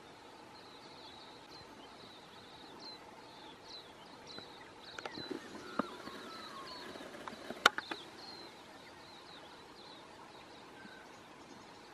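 Quiet bush ambience with a small bird repeating short, high chirps. About five to eight seconds in there is a cluster of clicks and knocks, ending in one sharp, loud click.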